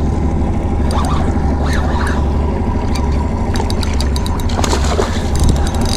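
Wind and rain buffeting an action camera's microphone: a steady low rumble, with a patter of small raindrop clicks on the housing.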